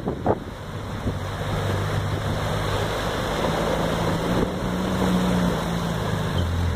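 Off-road truck's engine running as it drives through water, rising in pitch through the middle and dropping near the end, with wind buffeting the microphone.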